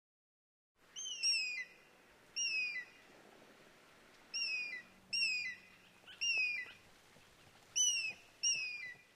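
Eagle calling: about ten short, high cries that each slide downward, some coming in quick pairs, starting about a second in.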